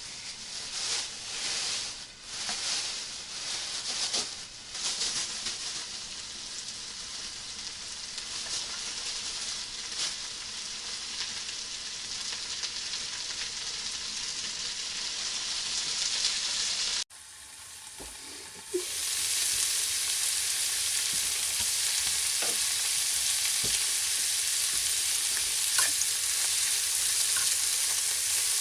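Food sizzling as it fries in a pan, a dense, steady crackling hiss. About 17 seconds in it cuts off abruptly, then returns louder with a few small pops.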